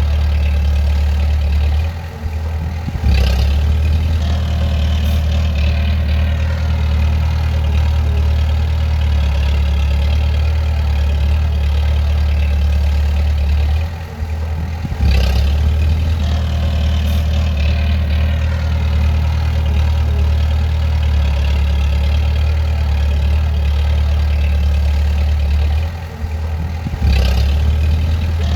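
Bulldozer's diesel engine running steadily with a deep hum. Three times, about twelve seconds apart, it drops briefly and then comes back with a sharp click.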